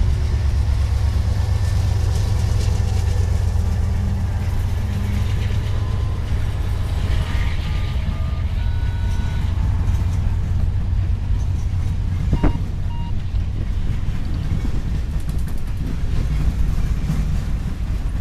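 Boxcars of a freight-style train, the Canadian Pacific Holiday Train, rolling past: a steady low rumble of wheels on rail, with one brief sharp sound about twelve seconds in.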